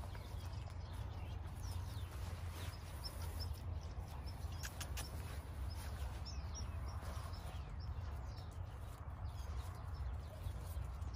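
Small birds chirping faintly, short high notes in a few small groups, over a steady low rumble, with a few light clicks about five seconds in.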